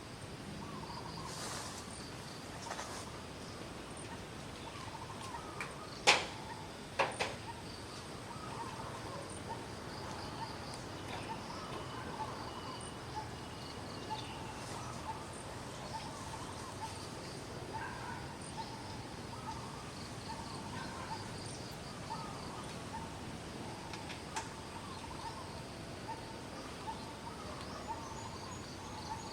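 Outdoor ambience: steady insect buzzing and frequent short bird chirps, with two sharp knocks about a second apart, around a fifth of the way in.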